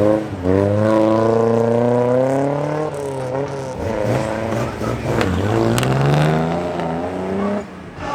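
Car engine revving repeatedly, its pitch climbing and falling in long swells, then dropping away shortly before the end.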